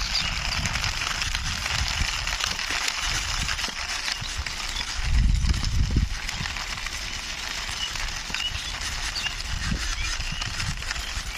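Small toy jeep pushed along by hand, its wheels rolling and scraping over the ground in a steady rasping hiss, with uneven low rumbles and a louder bump about five seconds in.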